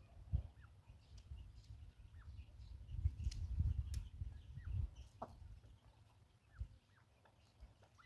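Chukar partridges giving short, faint descending call notes at intervals, over a low rumbling noise that is loudest from about three to five seconds in.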